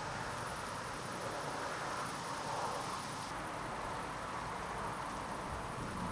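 Steady hiss of a thunderstorm's wind and rain, with no thunderclap, and a faint, rapid, high pulsing chirp above it.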